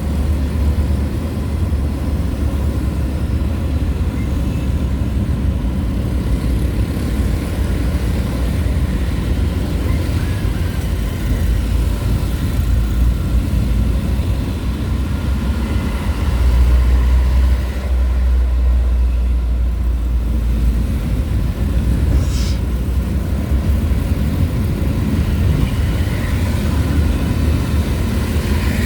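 Steady rumble of a vehicle on the move, with wind buffeting the microphone and engine and road noise beneath it, growing louder for a few seconds about halfway through.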